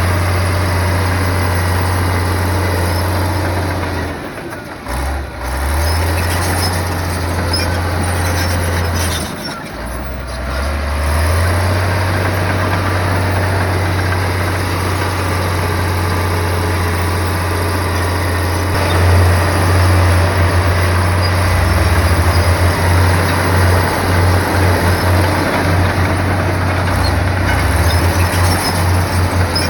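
Heavy bulldozer's diesel engine running under load. Its note dips twice in the first ten seconds as the load changes, then pulses unevenly near the end.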